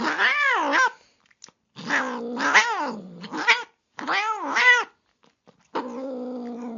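Angry cat yowling and growling: three wavering yowls that swing up and down in pitch, then a steady low growl starting about a second before the end.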